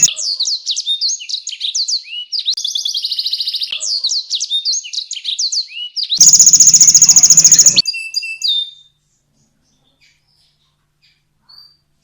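Domestic canary singing a fast song of whistled slurs and trills, with a loud buzzing roll about six seconds in. The song stops about nine seconds in.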